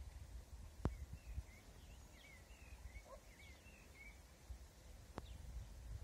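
Faint bird song: a quick warbling run of up-and-down notes lasting about three seconds, over a low rumble on the microphone. Two sharp clicks, one about a second in and one near the end.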